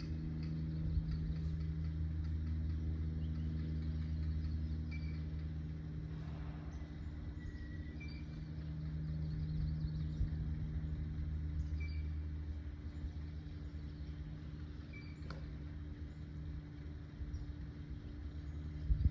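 Faint short bird chirps every second or two over a steady low mechanical hum, like a running engine or distant traffic.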